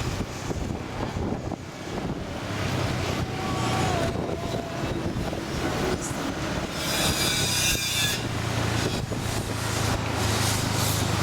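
Motor scooter running along the road: a steady low engine hum under road and wind noise, with a brief high-pitched screech about seven seconds in.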